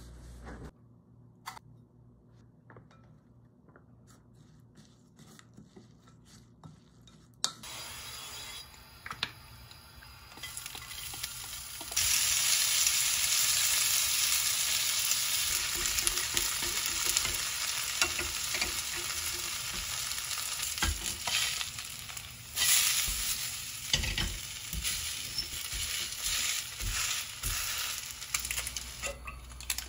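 Shredded potato frying in oil in a pan: a sizzle that begins about a quarter of the way in and turns loud and steady from about twelve seconds, with chopsticks stirring and occasional knocks of utensils against the pan. Before the frying it is mostly quiet, with a few soft clicks.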